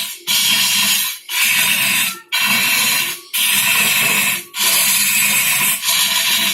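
A cutting tool scraping across wood spinning on a lathe in repeated passes, about six strokes of roughly a second each with short breaks between.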